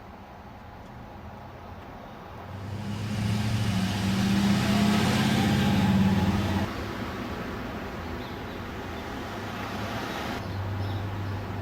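Engine of an old car running close by, growing louder for a few seconds and then cutting off suddenly. A similar low engine hum starts again near the end.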